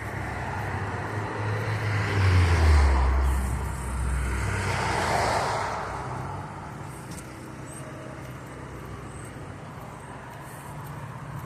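A motor vehicle driving past, a low rumble that swells to its loudest a couple of seconds in and fades away by about six seconds, leaving steady street background noise.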